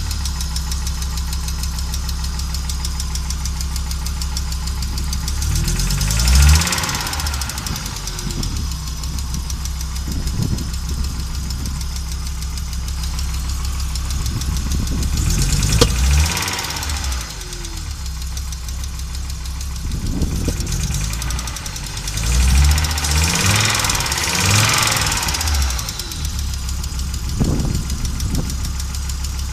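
Audi AAR 2.3-litre five-cylinder engine running roughly, with three short rises and falls in engine speed and a few sharp pops. The owner describes it as misfiring badly and running unevenly after an engine swap.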